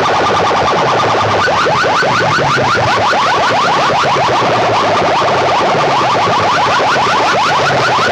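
Competition DJ sound system blasting a synthetic alarm-like effect: a fast string of short rising chirps, about eight to ten a second, over pulsing bass.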